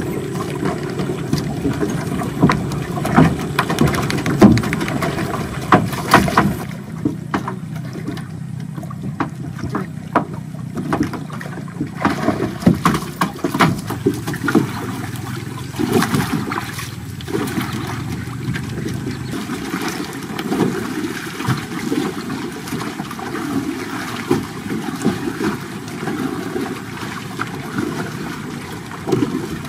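A boat on water: a steady low rumble of water and hull, with frequent short knocks.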